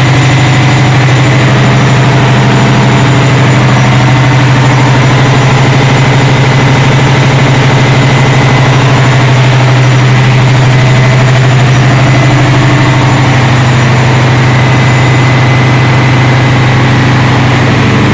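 Ship's engine room with diesel machinery running: a loud, steady, deep drone with a thin high whine on top, unchanging throughout.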